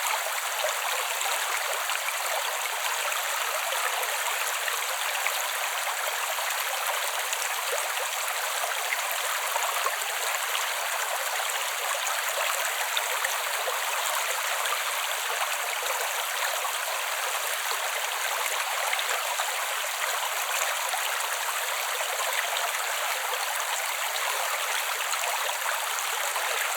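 A small creek flowing over stones, a steady trickling and babbling rush with no low rumble and no change.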